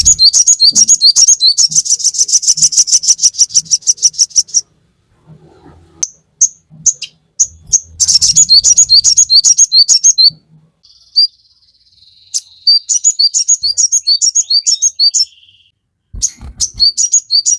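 Sogon songbird singing in long runs of rapid, repeated high chirps, with a fast trill about two seconds in and a buzzy note near the middle. The song breaks off in short pauses, with a brief gap about a second before the end.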